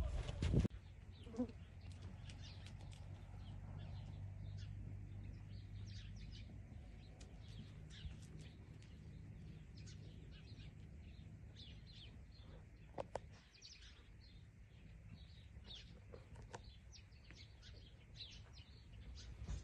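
Small birds chirping faintly and repeatedly over a steady low hum. A louder noise fades out within the first second, and there are two short clicks about two thirds of the way through.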